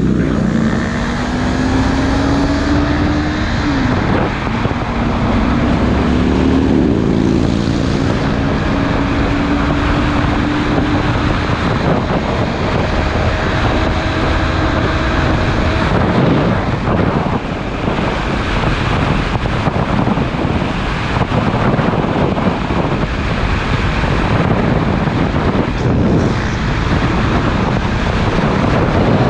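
Sport motorcycle engine accelerating, its pitch climbing, dropping once at an upshift a few seconds in, then climbing again. In the second half, wind rushing over the GoPro microphone at riding speed covers most of the engine.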